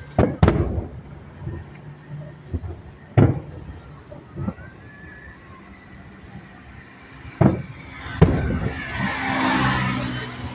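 Aerial fireworks bursting over a festival: four sharp booms with rumbling tails, two close together at the start, one about three seconds in and two more near the end. The last boom is followed by a hiss that swells and fades over about two seconds.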